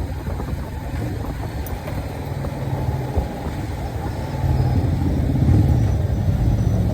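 SM Sport V16 motorcycle engine running through its stock exhaust at a low, steady idle, getting louder about four and a half seconds in.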